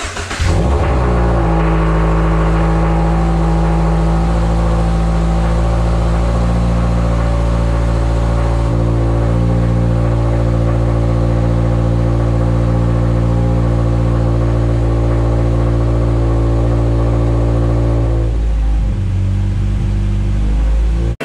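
2023 Toyota GR86's 2.4-litre flat-four boxer engine starting up, its first flare rising in pitch, then idling steadily with a newly fitted ram-air intake; the note shifts about 18 seconds in.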